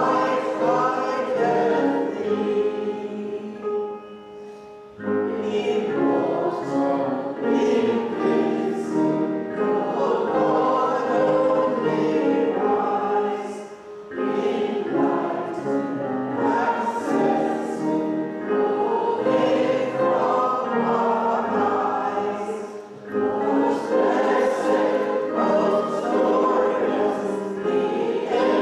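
Many voices singing a hymn in church, pausing briefly between lines about three times.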